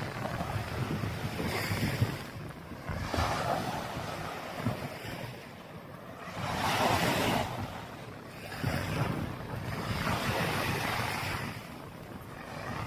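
Waves washing onto a sandy beach, the wash swelling and fading several times, with wind rumbling on the microphone.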